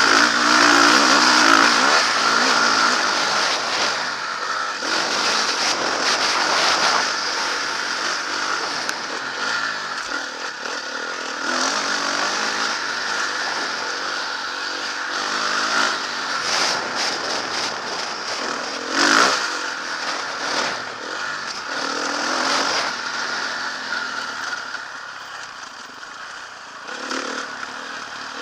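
Motocross bike engine being ridden hard, revving up and easing off again and again, loudest at the start with a brief quieter spell near the end.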